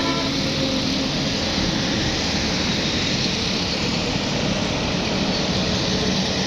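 Steady motor vehicle noise: engine and road rumble running evenly throughout, with no change in pace.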